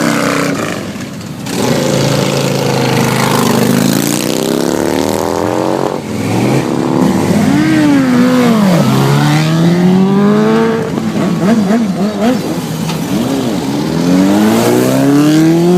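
Car engines revving and accelerating as the cars pull away, the pitch climbing again and again over a couple of seconds, with a few quick revs up and back down in between.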